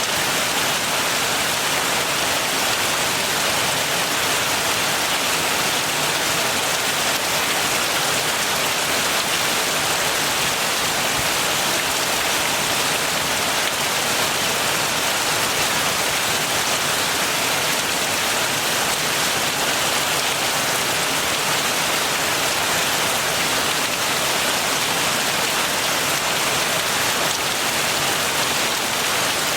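Steady heavy rain falling, a dense even hiss of drops.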